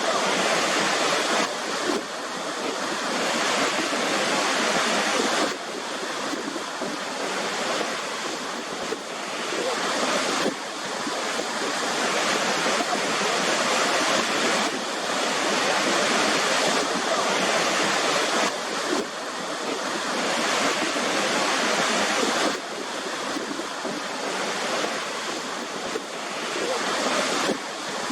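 Waterfall: a steady rush of falling water, with the level dropping or rising abruptly several times.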